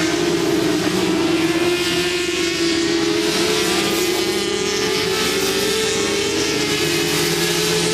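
SuperSport 400 racing motorcycle engines running flat out at high revs: a steady high-pitched drone whose pitch wavers slightly, with no break.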